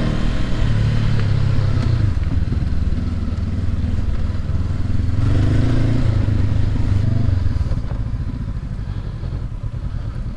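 Honda CB500X parallel-twin motorcycle engine revving up under load in two surges while riding over mud and a boulder, then easing back to a lower, steadier run about eight seconds in.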